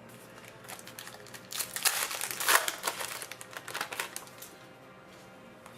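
Trading cards and their plastic packaging being handled: a crinkling rustle with small crackles, swelling for about three seconds in the middle.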